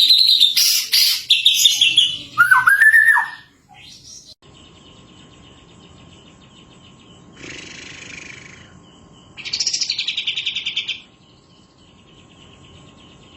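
Caged songbird song, a white-rumped shama (murai batu) set against kapas tembak (katem) calls: loud, varied whistles and pitch glides for the first few seconds, then a pause and, about nine seconds in, a rapid buzzy trill.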